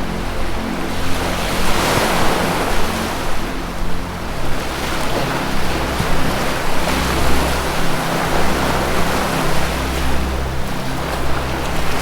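Ocean surf washing in repeated swells every couple of seconds, over a low sustained ambient music drone.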